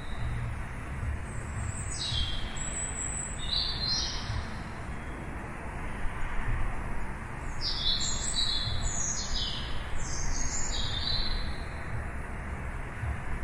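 Songbirds chirping in two bouts of quick, high, downward-sweeping notes, about two seconds in and again from about halfway, over a steady background of low noise.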